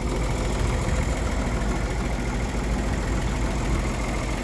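A 292 straight-six engine in a 1954 GMC 250 truck idling steadily; the owner says it runs but needs a carburetor.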